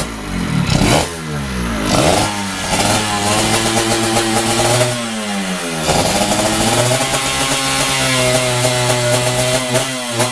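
116cc two-stroke drag-race motorcycle engine being revved during carburetor tuning, its pitch falling and climbing several times before holding a steady speed near the end.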